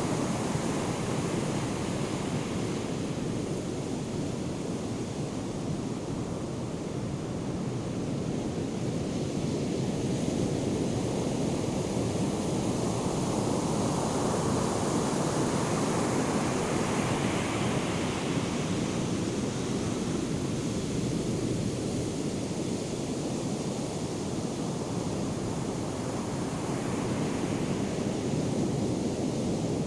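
Ocean surf from Hurricane Erin's swell, a continuous wash of breaking waves that builds to a louder, hissier break about two-thirds of the way through.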